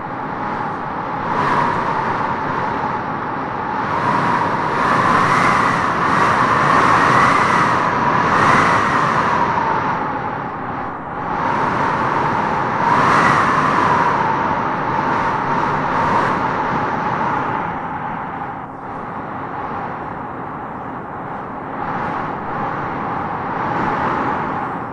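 Wind blowing in gusts, with a whistling howl that swells and fades, loudest about a quarter of the way in and again about halfway.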